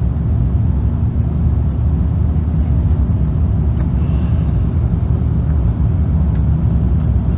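Steady, loud low rumble of an Airbus A350's Rolls-Royce Trent XWB engines and airflow, heard from inside the passenger cabin during departure.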